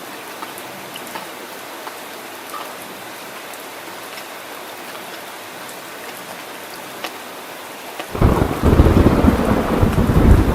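Steady rain falling, with scattered drops ticking. About eight seconds in, a loud low rumble of thunder starts suddenly and rolls on.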